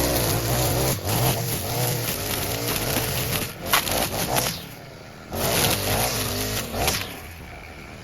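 Gas lawn mower engine running steadily while cutting tall, overgrown grass, dropping away sharply twice, about five seconds in and again near the end.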